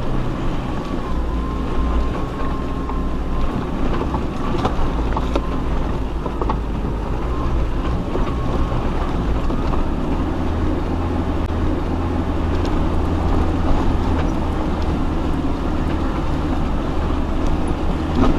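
Off-road four-wheel-drive vehicle's engine running steadily at low revs as it crawls along a rough, steep mountain track, with a few light knocks from the vehicle.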